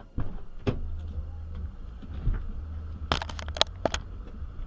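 Car collision heard from inside a car: a sudden knock, then a harder bang under a second later, over a low rumble. About three seconds in comes a quick run of sharp cracks.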